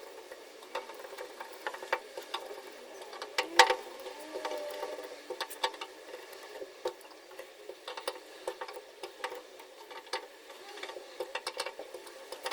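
Small irregular metallic clicks and scrapes of screws being fitted and turned into a fuel tank sender unit, with one sharper click about three and a half seconds in.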